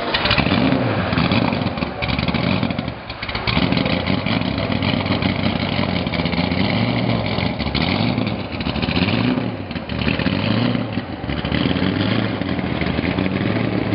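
V8 engine of a Corvette race car running loud and being revved, its pitch rising and falling about once a second, with a short lull around three seconds in.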